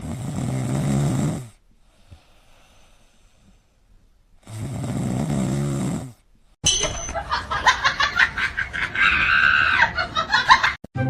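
An animal snoring: two long, rasping breaths about four seconds apart. After that comes a different, choppy sound made of rapid pulses.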